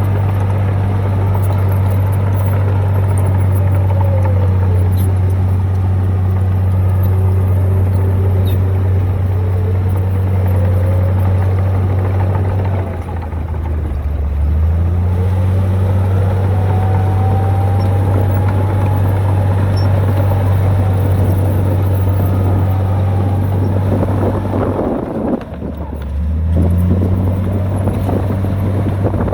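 Heavy diesel engine of earth-moving machinery running hard at steady revs. It sags briefly about halfway through and again near the end, each time picking back up, with a fainter whine rising and falling above it.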